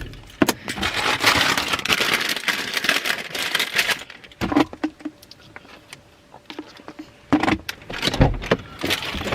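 Rustling and handling noise for a few seconds, then quieter, with a few scattered knocks and thumps.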